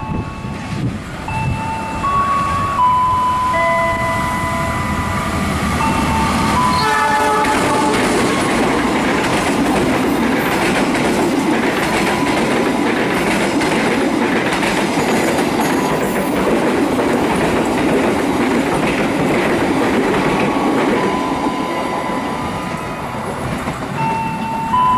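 A train sounds its horn briefly about seven seconds in, then passes close by with a loud rumble and clatter of wheels over the rails that lasts about thirteen seconds. Before and after the passing, a steady electronic warning tone repeats its pattern, changing pitch in steps.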